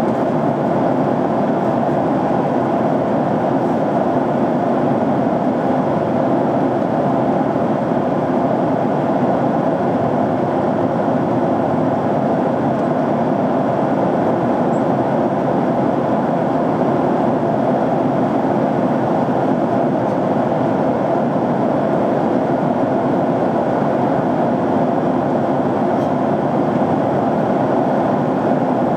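Steady cabin noise of an airliner in flight: an unbroken, even rush of engine and airflow noise heard from a window seat inside the cabin.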